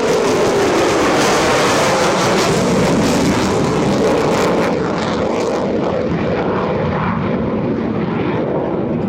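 Lockheed Martin F-35C Lightning II's F135 afterburning turbofan roaring loudly as the jet passes. After about five and a half seconds the hiss at the top drops away and the roar eases as the jet moves off.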